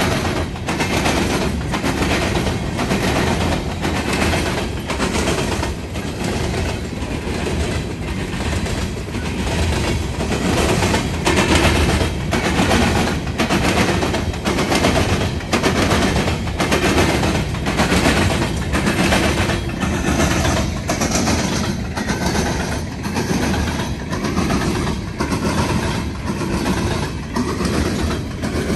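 Norfolk Southern freight train's covered hopper cars rolling past, the wheels clacking on the track in a steady, even rhythm over a continuous rumble.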